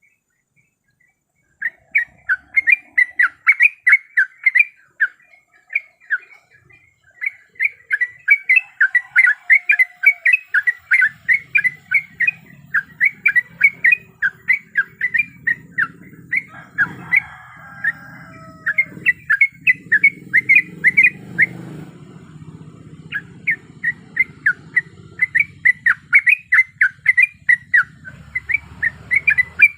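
Yellow-vented bulbul (trucuk) singing fast rolling runs of short chattering notes, one run after another, with a brief pause near the start. A low hum lies under the song through the middle, and another bird gives gliding calls at about the halfway point.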